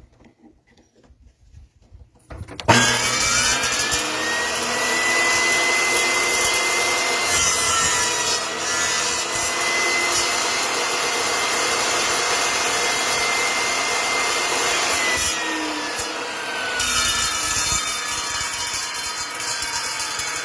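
Table saw switched on about two and a half seconds in, its blade whine rising quickly to a steady pitch and running while a test cut is made through wood on the crosscut sled. Near the end the saw is switched off and the whine falls slowly as the blade coasts down.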